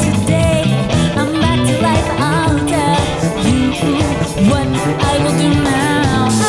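Funk-rock band playing live: steady drums and bass under melodic lines that bend up and down in pitch.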